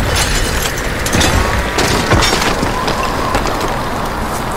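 Storm sound effect: a loud, steady rush of wind and rain, with several crashes about one and two seconds in as a tornado tears through.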